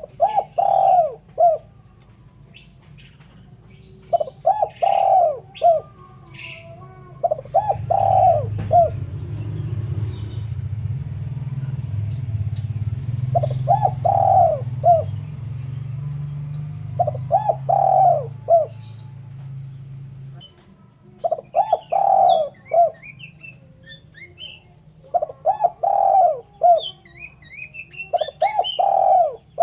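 Spotted dove cooing: short phrases of three or four low coos repeated every few seconds. Small birds chirp higher in the background, and a low hum runs through the middle stretch.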